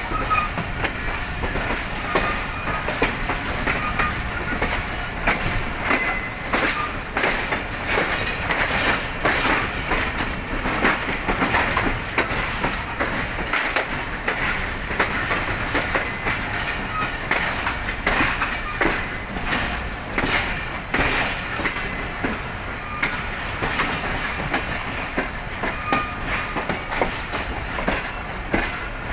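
Rehman Baba Express passenger train running on the rails: a steady rumble of wheels on track with frequent irregular clicks and clatter, and a few brief faint wheel squeals.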